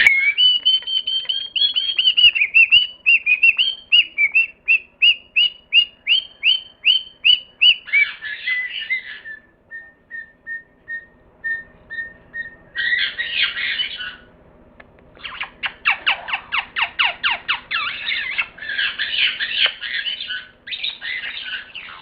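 Bird calls: long runs of quick, evenly repeated high chirps, a stretch of fainter repeated notes, then harsh squawks.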